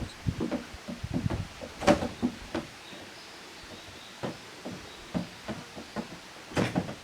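Young goats playing, with a run of short knocks and scuffles, including two sharper knocks about two seconds in and near the end.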